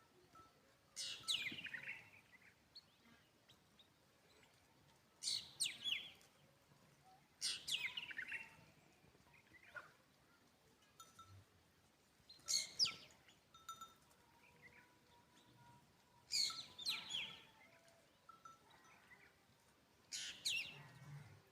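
A bird calling outdoors in six short bursts, each a quick run of notes falling in pitch, repeated every two to four seconds.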